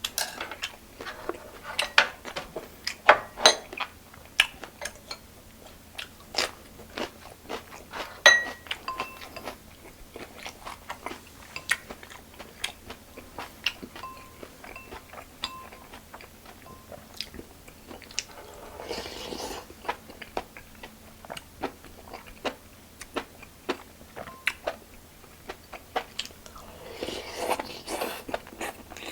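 A person eating close to the microphone: chewing and crunching food, with many short, sharp crunches throughout and two longer noisy stretches, one about two-thirds of the way in and one near the end.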